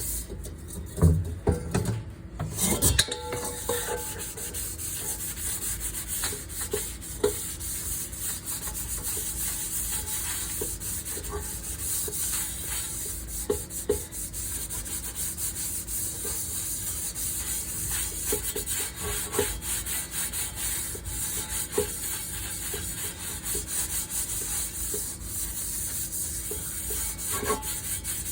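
A pan being scrubbed with a scouring pad: steady scratchy rubbing throughout, with a few knocks of cookware in the first three seconds.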